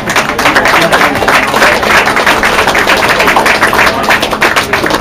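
Audience applauding: a dense, loud patter of many hands clapping that fades out just after the end.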